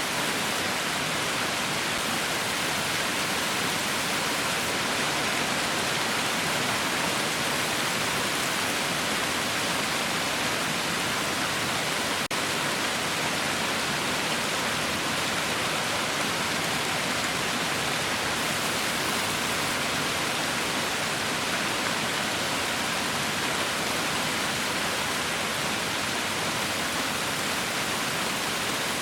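Heavy rain falling steadily: a dense, even hiss with no let-up. A faint click about twelve seconds in.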